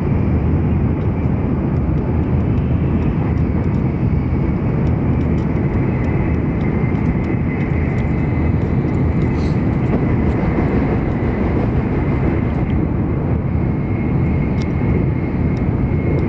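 Cabin noise inside an N700 series Shinkansen running at high speed: a steady deep rumble with a faint, steady high whine over it.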